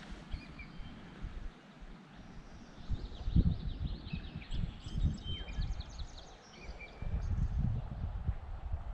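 Small birds chirping repeatedly over irregular low rumbles of wind on the microphone.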